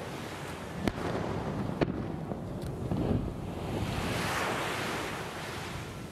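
Fireworks display: two sharp distant bangs about one and two seconds in, then a broad rushing noise that swells around four seconds in and fades away.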